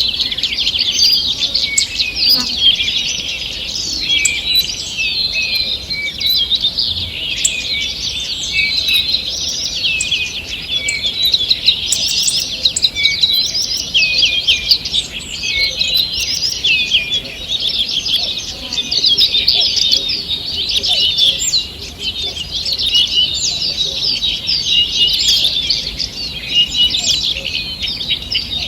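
Dawn chorus of many small songbirds singing at once, a dense tangle of overlapping chirps and trills.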